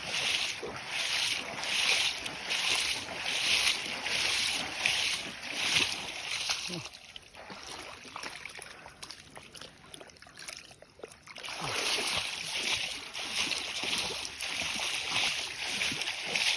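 Floodwater sloshing and splashing in a steady walking rhythm, about one splash every three-quarters of a second, as someone wades through it. The splashes fade for a few seconds around the middle, then pick up again.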